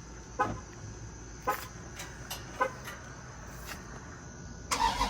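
A few faint, short chirps, then near the end the starter of a Scat Pack Widebody's 6.4-litre Hemi V8 begins cranking for a cold start, just before the engine fires.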